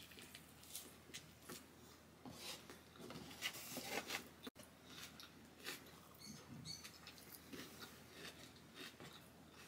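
Faint chewing and soft wet mouth clicks from eating an egg breakfast sandwich.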